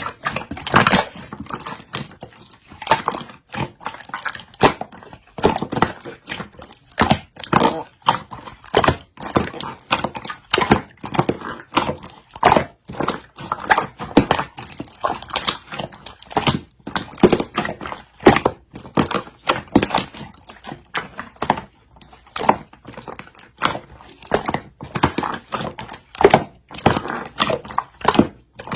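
Clear yellow slime being squeezed and pressed by hand, making a continuous run of sticky clicks and small air-bubble pops, a few each second.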